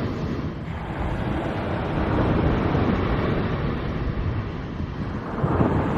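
Wind buffeting the microphone over the wash of surf, a steady low rush that swells about two seconds in and again near the end.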